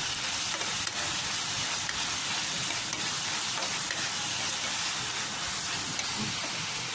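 Food frying in hot oil in a pan, sizzling with a steady hiss, while a spatula stirs it with a few light clicks.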